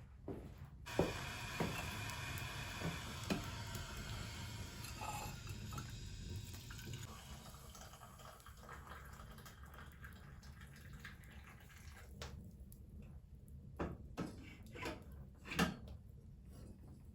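Water pouring steadily for about six seconds, fading out, followed by a few light knocks of household objects near the end.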